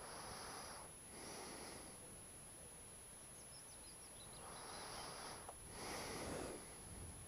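Quiet breathing close to the microphone: two breaths in and out near the start and two more about two-thirds of the way through. Faint bird chirps come in the middle.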